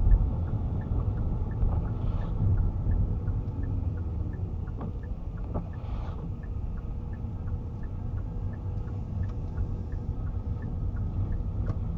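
Inside a moving car: a steady low engine and road rumble, with the turn-signal indicator ticking at an even pace throughout.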